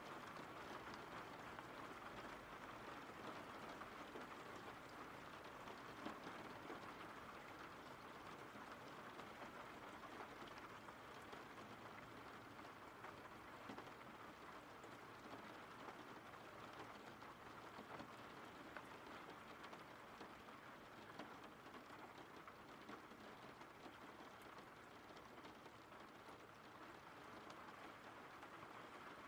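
Steady rain falling: a faint, even hiss with scattered drop ticks.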